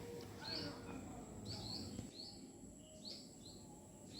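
Faint bird chirps repeating about once a second, sometimes two close together, over a faint steady high-pitched whine.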